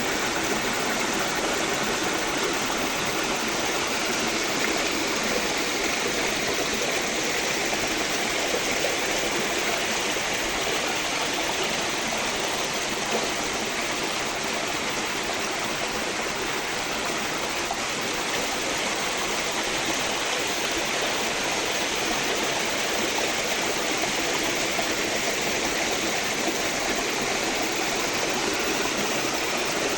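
Forest stream flowing steadily, an even rushing and splashing of water.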